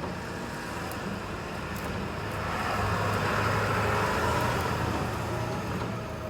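A car driving, with steady road and engine noise that grows louder in the middle and then eases off.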